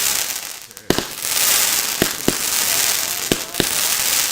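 Consumer fireworks going off: a steady fizzing hiss with five sharp bangs, mostly in close pairs, starting about a second in after a brief lull.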